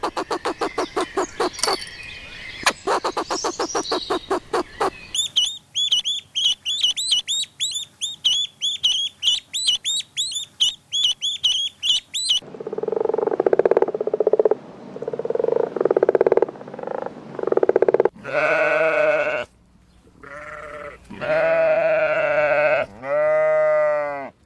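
A run of different animal calls edited one after another: rapid pulsed calls, then a long series of evenly repeated high chirps, then bleating, with long wavering bleats in the last few seconds.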